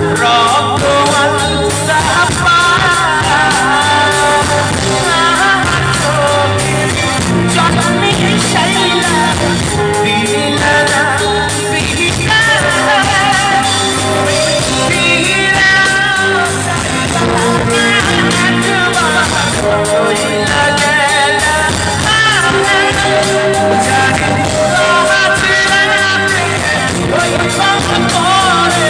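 Live band music: a wavering melody line over a steady drum beat, playing without a break.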